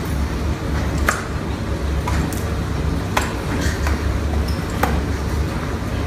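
A few sharp, light clinks, about four spread over several seconds, over a steady low hum.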